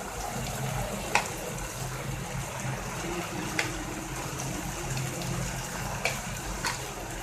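Masala gravy sizzling steadily in a pan as fried chicken pieces go in, with a few sharp clicks of a spoon against the pan.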